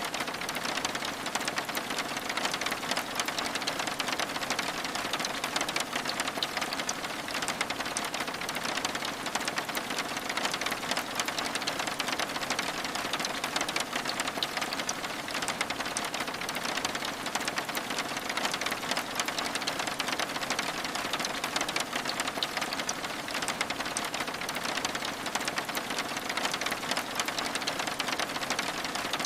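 Steady rain pattering on window glass, an even hiss full of tiny drop ticks, mixed with the soft crackle of a wood fire in a fireplace.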